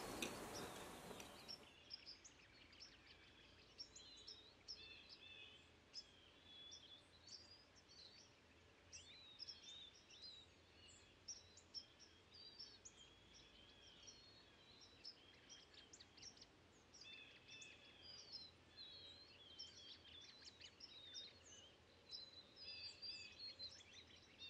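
Faint birdsong: many small birds chirping and twittering, after a broad hiss fades out about two seconds in.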